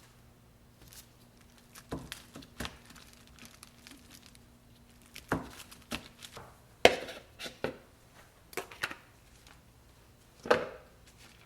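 Knife cutting a block of butter into portions on a cutting board: a dozen or so irregular knocks of the blade on the board, the loudest about seven seconds in and near the end.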